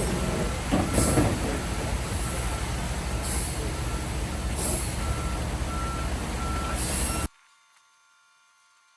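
A truck's reversing alarm beeping about twice a second over its running diesel engine, with a few short hisses. The sound cuts off suddenly about seven seconds in, leaving near silence.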